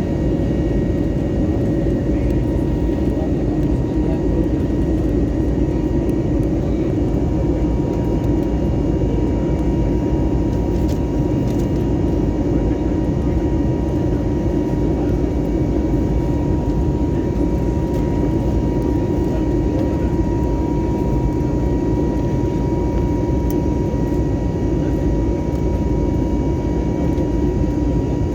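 Steady cabin noise of an airliner in flight: an even engine and airflow rumble with a faint, constant hum-like tone above it.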